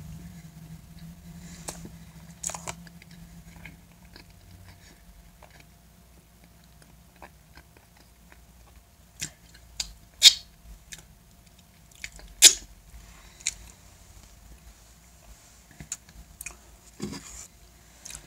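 Close mouth sounds of a person eating a bite of guava cake: soft chewing with scattered wet lip smacks and clicks, and fingers being licked. The sharpest smacks come about ten and twelve seconds in.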